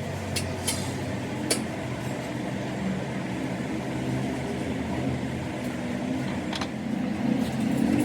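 A steady mechanical hum, like a motor or engine running, with a few short, sharp clicks or taps over it.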